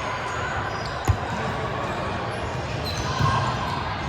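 A volleyball struck with one sharp smack about a second in and a softer knock near three seconds, over the steady echoing din of a large indoor sports hall.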